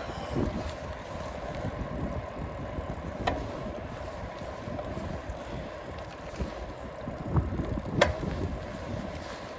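Riding a bicycle: wind buffeting the microphone over a steady hum, with two sharp knocks, one about three seconds in and a louder one about eight seconds in.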